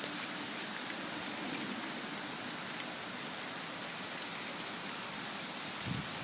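Steady hiss of storm wind with light rain, even and unbroken.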